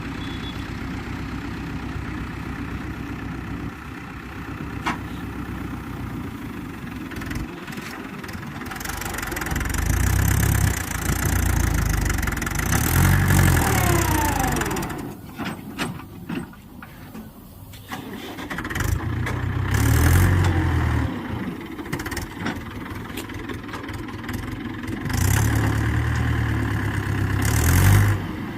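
Mahindra tractor's diesel engine running, revved up several times between stretches of lower running.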